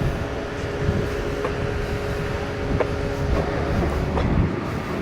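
Heavy vehicle engine running steadily: a constant drone with a low rumble underneath and a few faint clicks.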